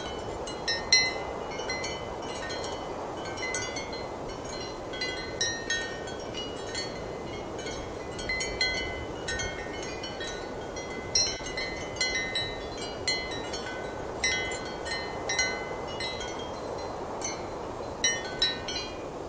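Ceramic wind chimes clinking irregularly in strong, steady wind, each strike a short bright ring, sometimes in quick clusters, over a continuous rush of wind.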